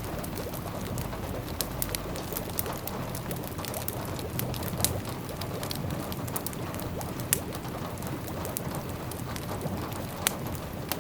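Wood fire crackling, with scattered sharp pops, over a steady low rumble and a soft patter of rain.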